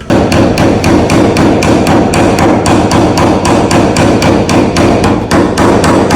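Rapid, even hammer taps on sheet metal, about five or six a second, starting abruptly. This is the tapping-down of paintless dent repair on a car's bonnet panel.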